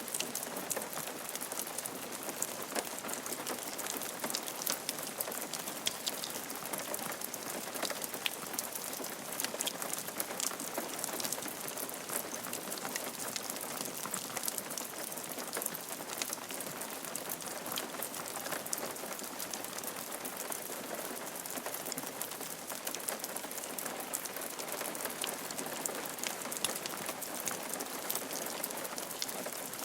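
Rain falling steadily on a roof, a continuous hiss dotted with the small ticks of individual drops.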